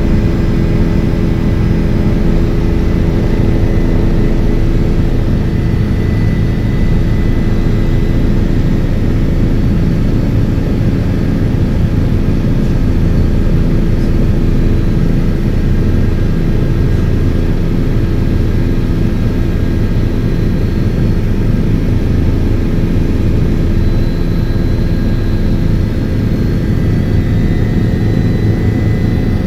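Helicopter engine and rotors running, a loud, steady noise that holds even throughout.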